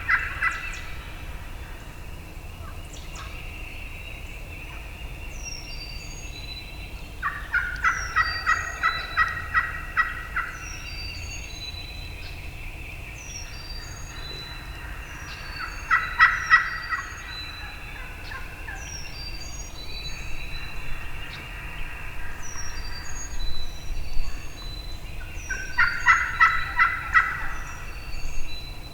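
Wild turkeys gobbling in loud, rattling bursts, four in all, with small songbirds chirping throughout.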